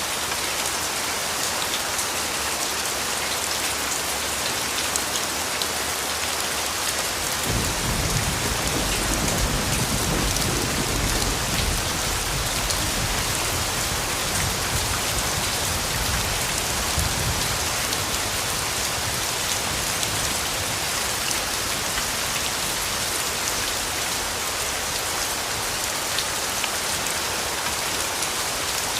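Steady rain falling, an even hiss of raindrops. About a quarter of the way in, a long low roll of distant thunder rises and then fades away over roughly ten seconds.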